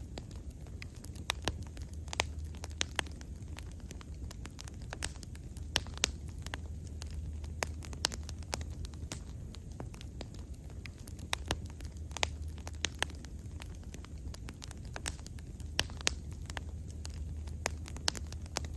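Wood fire burning with irregular sharp crackles and pops over a low steady rumble.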